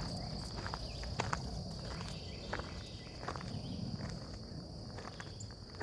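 Insects trilling steadily on one high pitch, with irregular footsteps on a trail.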